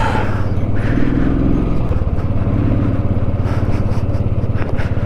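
Motorcycle engine running steadily under way, a low engine note with a rapid, even pulse.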